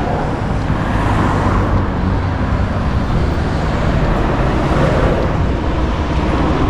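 Steady road traffic noise on a city street: cars running past in a continuous low rumble, with no single vehicle standing out.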